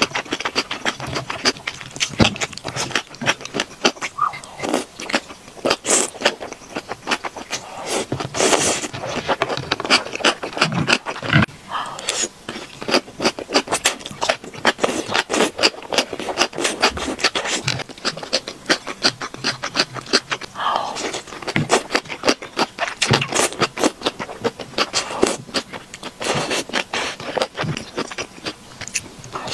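Close-miked mukbang eating: wet slurping and crunchy chewing of chilli-oil-soaked gongcai strips and enoki mushrooms, a quick, unbroken run of smacks and crunches.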